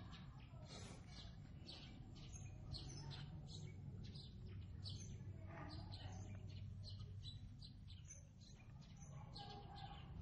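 Faint chirping of small birds, many short high chirps in quick succession, over a low steady hum.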